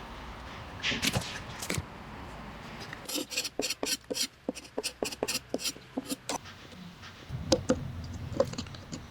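Hand tools working wood. A few scraping strokes come first, then a quick run of light, sharp taps, about five a second for some three seconds, and a couple of heavier knocks near the end.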